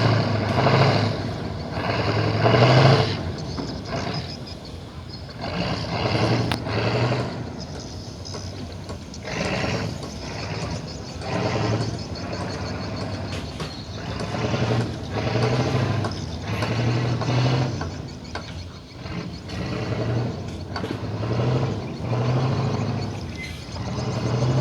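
Tugboat's diesel engine running, swelling and easing every second or two, loudest in the first few seconds.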